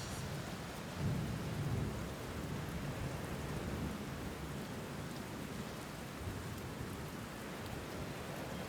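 Steady rain falling, with a low rumble of thunder that swells about a second in and slowly dies away.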